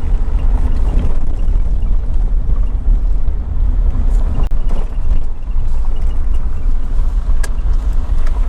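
Vehicle driving, a steady low rumble of engine and road noise with a sharp click about seven and a half seconds in.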